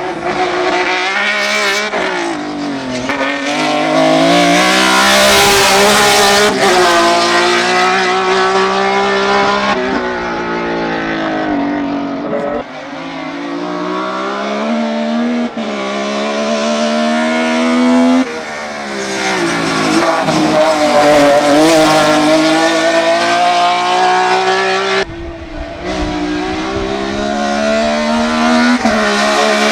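BMW E30 hill climb prototype race car's engine at full throttle, its pitch climbing through the revs and dropping sharply at each gear change or lift, again and again through the run.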